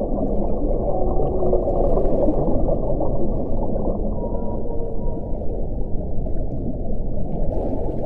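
Strong wind blowing steadily: a deep, dense rushing with faint moaning tones that come and go. A brief higher hiss rises about two seconds in and again near the end.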